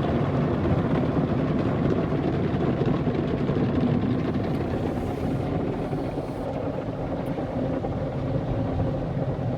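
Automatic car wash machinery working over the car, heard from inside the cabin: a steady churning rush that eases slowly.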